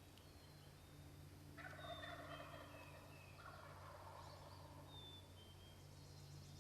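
Two faint gobbles from a distant wild turkey tom. The first comes about a second and a half in, the second follows right after, and each rattling call lasts about a second.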